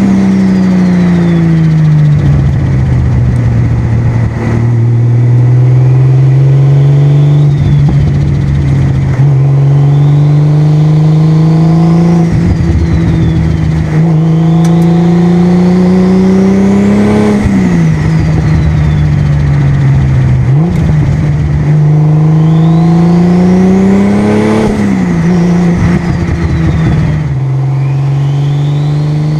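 Toyota Supra's single-turbo 2JZ inline-six pulling through the gears under moderate load. The engine note climbs slowly and drops at each shift, several times over. A turbo whistle rises with each pull and falls away, and a rushing, fluttering noise follows as the revs drop.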